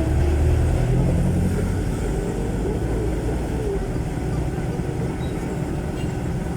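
A jeepney's Isuzu 4BC1 diesel engine running through a very loud aftermarket 'Ear-Breaker' muffler, heard from on board during the ride. The low exhaust note is heaviest for the first couple of seconds, then settles to a steady drone.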